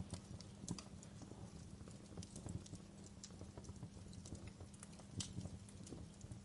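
Wood fire crackling in a fireplace: irregular snaps and pops over a low steady rumble, with sharper pops about a second in and again near five seconds.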